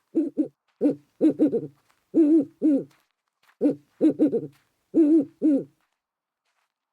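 An owl hooting: a quick run of short hoots in three groups, stopping shortly before the end.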